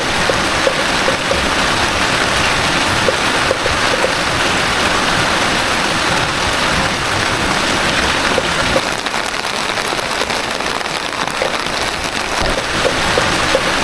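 Heavy rain falling steadily, with scattered louder drips ticking through it.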